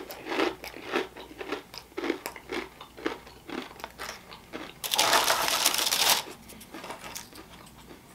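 Close-miked chewing of crunchy toasted pita chips with hummus, crunching about twice a second. About five seconds in there is a loud rustle lasting just over a second.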